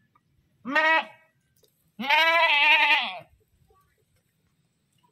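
Goat bleating twice: a short bleat about half a second in, then a longer, wavering bleat about two seconds in.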